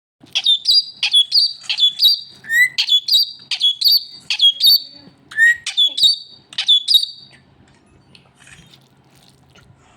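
Pet parrot calling in a quick run of loud, sharp, high-pitched calls, about two a second, with a couple of lower sliding notes mixed in; the calls stop about seven seconds in.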